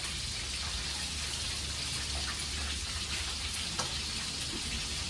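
Food frying in hot oil in a pan: a steady sizzling hiss with a few small crackles.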